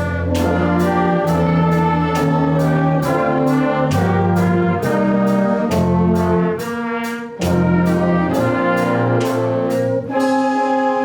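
Student brass ensemble playing a holiday tune: held brass chords that change every second or so over a steady percussion beat, with a brief drop in level about seven seconds in.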